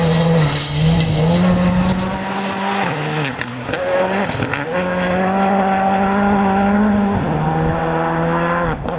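Rally car engine held at high revs, its pitch dipping briefly several times as the driver shifts or lifts off, then dropping away near the end as the car goes by.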